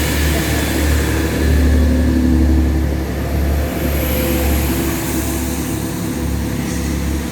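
Train engine running at the station with a steady low hum, swelling slightly about two seconds in and easing off after.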